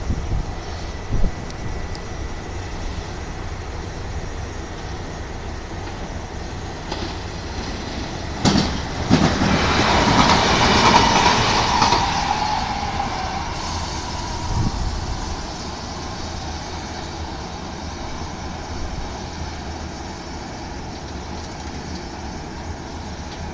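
Kintetsu 16600-series limited express electric train passing through the station at speed. The sound builds sharply, peaks for a few seconds with a steady whine that drops slightly in pitch, then fades away.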